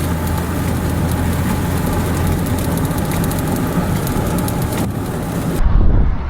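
Steady vehicle and wind noise: a low hum under a wide hiss. About five and a half seconds in, the hiss cuts off abruptly and a louder low buffeting rumble takes over.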